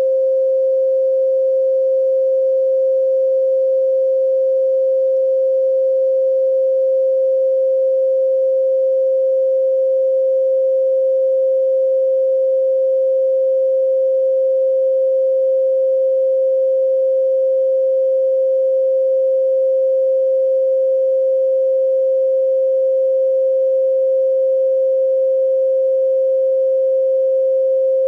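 A pure 528 Hz sine tone held steady, one unbroken pitch at even loudness.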